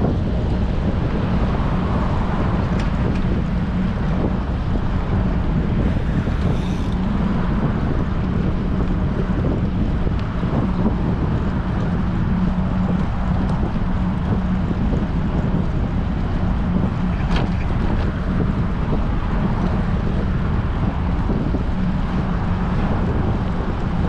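Steady, loud wind rushing and buffeting over a bicycle-mounted GoPro's microphone while riding in strong wind, with a constant low hum underneath and a few faint ticks.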